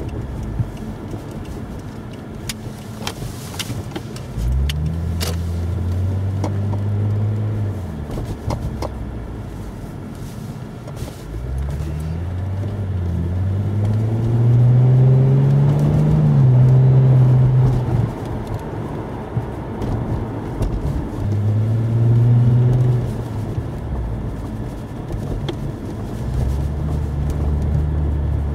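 Toyota Mark X (120 series) V6 engine and exhaust fitted with an M'sRealize silent muffler, heard from inside the cabin while driving: the engine note rises in pitch as the car accelerates and drops at each upshift, several times over, loudest about two-thirds of the way through.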